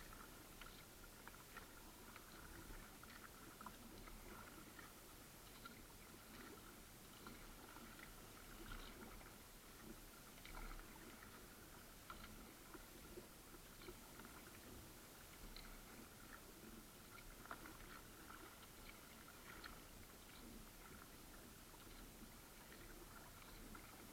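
Faint water sounds of a kayak paddling: small irregular splashes and drips over a steady low hiss.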